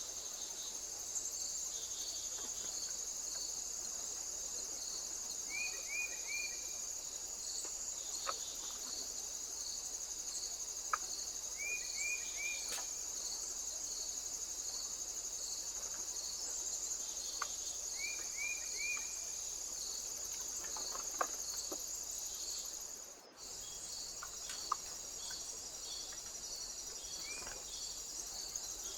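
Insects, crickets by the sound, chirping in a steady high trill, with a second insect pulsing in an even rhythm underneath. A short three-note call repeats about every six seconds, along with occasional faint clicks. The sound drops out briefly near the end.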